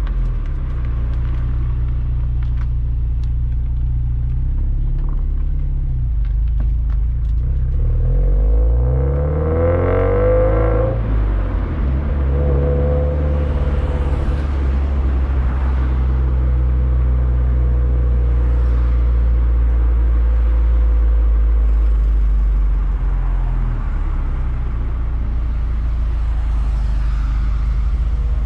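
Exhaust and engine of a Subaru WRX STI's turbocharged flat-four breathing through an HKS Super Turbo Muffler while driving: a steady low drone, whose pitch climbs and shifts briefly about ten seconds in before settling back to an even cruise.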